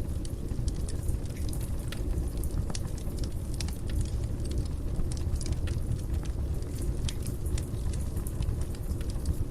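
Fire burning in a fireplace: frequent sharp crackles and pops over a steady low rumble.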